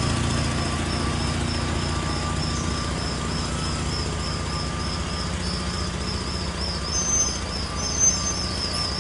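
Steady low engine rumble with a fast, even high-pitched chirping over it, about four chirps a second. Two short high beeps come near the end.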